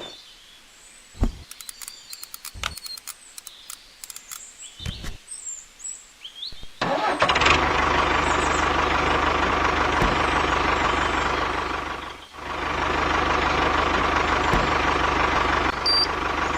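A few faint clicks and short chirps, then about seven seconds in an engine starts abruptly and runs steadily, with a low hum and a held tone. It drops out for a moment about twelve seconds in, then picks up again.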